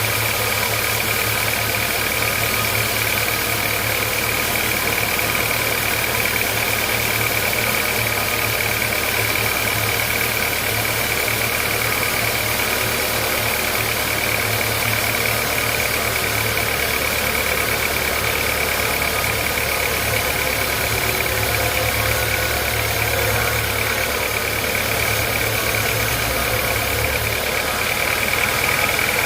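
Sawmill machinery running steadily: a low engine-like hum with a constant high whine over it.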